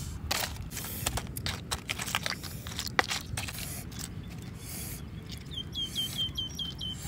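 Crunching and clicking of chewing, typical of raw crab shell being bitten, over the first half. Near the end a bird calls a quick run of about seven short, identical chirps.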